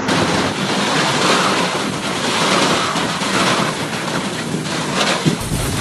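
Storm noise: strong wind and rushing water making a loud, steady hiss, with a change in sound about five seconds in.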